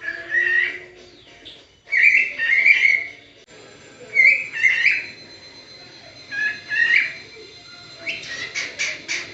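Pet parrot calling: a few short whistled calls a second or two apart, then near the end a quick string of short chirps, about five a second.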